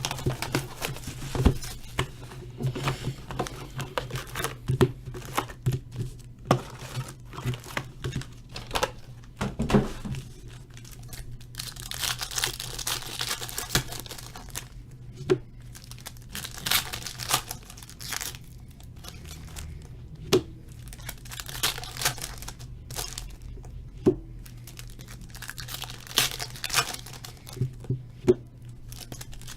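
Trading card packs being torn open, their foil wrappers tearing and crinkling in many short crackles and a few longer rips, over a low steady hum.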